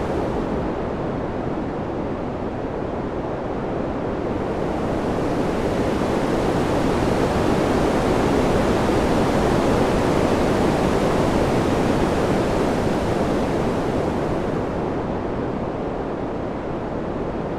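Wind sound: a steady rushing noise that slowly swells, fullest about halfway through. It turns duller and softer at the start and again near the end.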